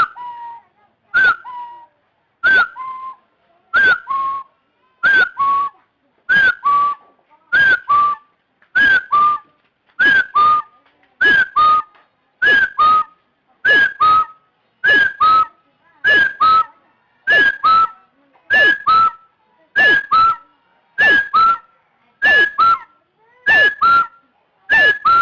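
Chinese francolin calling: a loud two-note phrase, a sharp higher note then a lower one, repeated steadily about every second and a quarter, the second note edging slightly higher in pitch as the series goes on.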